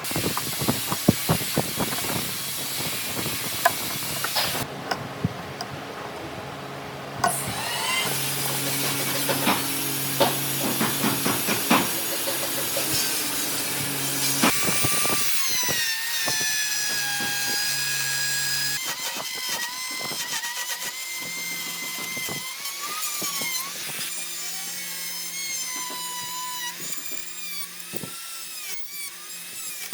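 Electric woodworking power tools running and cutting into wood, in several short segments with abrupt changes. A run of sharp knocks comes in the first few seconds, then a steady motor hum with a whine that slides up and down.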